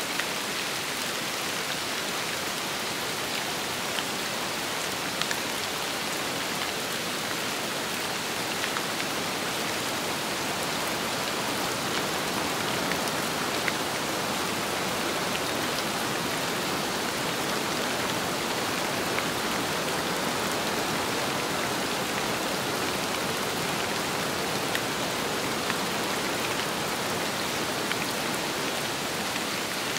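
Steady rain with wind, an even hiss of falling rain broken by scattered sharper ticks of single drops.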